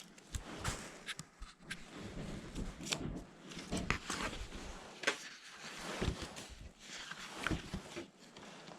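Footsteps of people walking over rough ground or debris, irregular steps about once a second with rustling between them.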